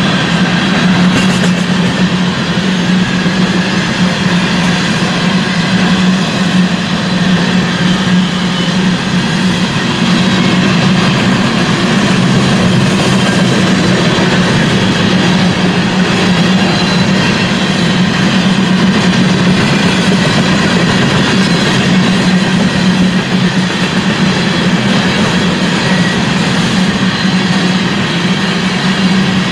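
A BNSF train rolling past, a loud steady rumble of wheels on rail with a constant low hum running underneath.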